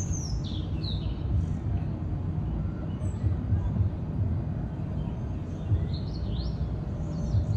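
Small birds chirping in short, high, gliding calls, a few near the start and again near the end, over a steady low outdoor rumble.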